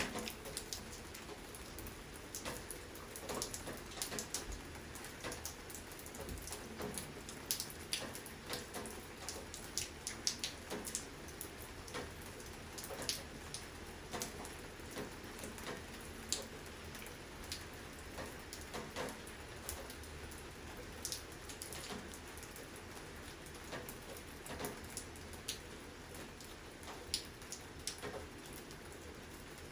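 Steady rain falling, a constant hiss with many separate drops ticking sharply and irregularly close by.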